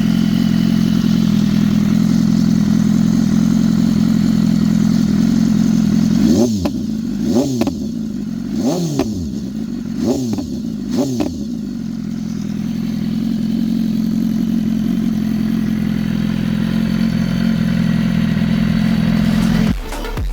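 BMW S1000RR inline-four engine idling through a titanium SC Project slip-on exhaust, warmed up. About six seconds in the throttle is blipped five times in quick succession, each rev rising and falling back, then it settles to a steady idle again.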